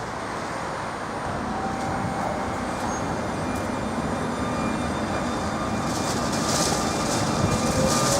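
Train starting to pull away: a steady rumble that grows gradually louder, with a hiss high up about six to seven seconds in and a whine that begins rising in pitch near the end.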